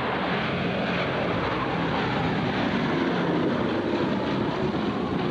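Boeing B-17 Flying Fortress with four Wright Cyclone radial engines, running steadily as it flies past.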